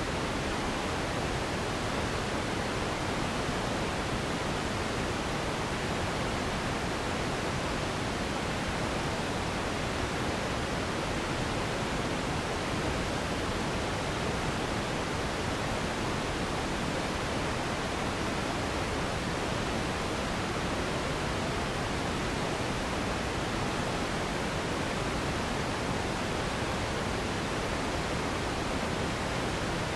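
Steady synthetic pink noise: an even, unchanging hiss across all pitches, fuller in the lows than in the highs.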